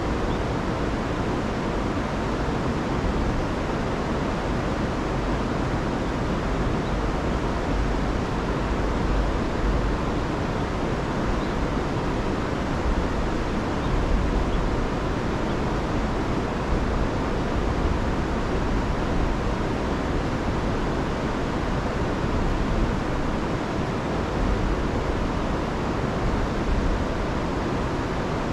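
Fast-flowing river, swollen after days of heavy rain, rushing in a steady, dense roar with deep low rumble.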